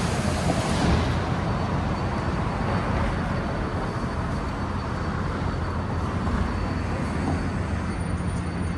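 Steady low rumble of busy city street noise. A high hiss fades away about a second in.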